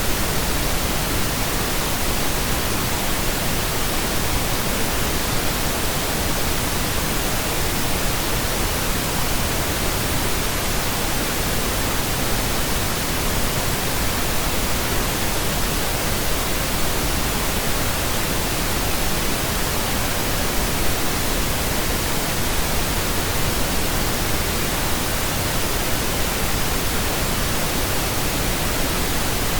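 Steady synthetic pink noise: an even, unchanging hiss across the whole range, with no music or other sounds over it.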